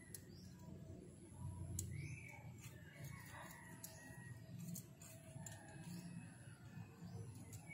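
Quiet background with a few faint bird calls, likely doves cooing, and a few light clicks of hands working on the metal parts.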